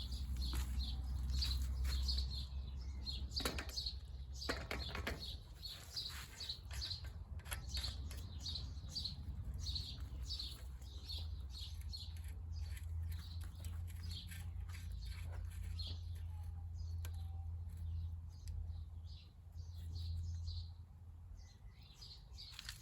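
A bird chirping over and over, short high notes about two a second, over a steady low rumble.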